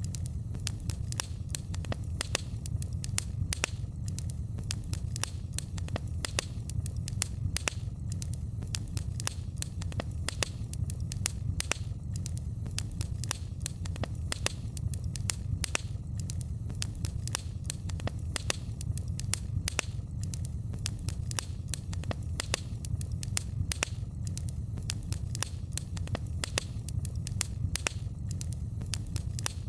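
Wood fire crackling in a fireplace: a steady run of sharp pops and snaps, several a second at irregular intervals, over a low steady rumble.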